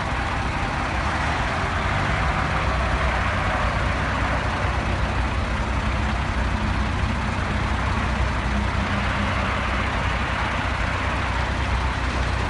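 Heavy vehicle engine running steadily, a low hum under a constant wide hiss of street and traffic noise.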